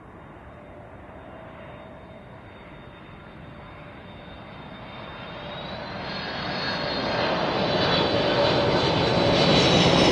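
Boeing 747-400D's four turbofan engines growing steadily louder as the jumbo jet approaches, a rushing noise with a high whine that rises slightly in pitch.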